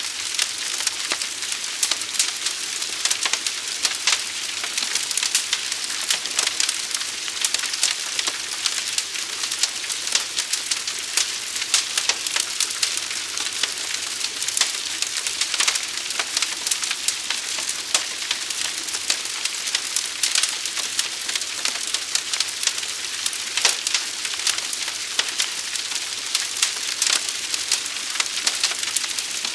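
A large fire crackling: a steady hiss with frequent sharp, irregular pops and snaps.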